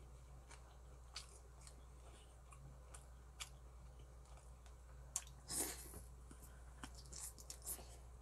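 A person chewing braised pork rib meat close to the microphone: scattered soft wet mouth clicks and smacks, with one louder, longer wet noise about five and a half seconds in, over a steady low hum.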